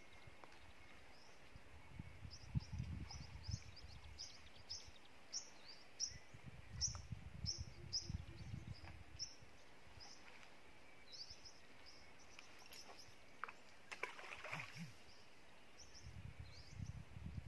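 A small bird calls a short, high chirp over and over, about two a second, for some ten seconds, then falls quiet. Low, gusty rumbles come and go underneath, and a brief rustle follows near the end.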